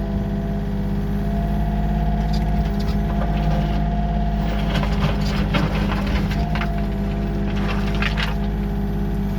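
Heavy-machinery diesel engine running steadily at working speed, with a few short rattles over it.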